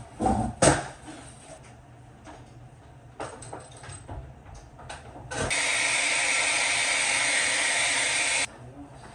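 Handling knocks at the start, then a loud, steady hiss of pressurised gas for about three seconds that cuts off suddenly.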